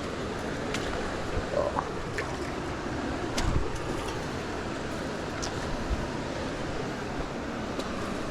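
Steady rush of water noise from the rainy jungle creek, with a few sharp clicks and knocks scattered through it, the strongest about three and a half seconds in.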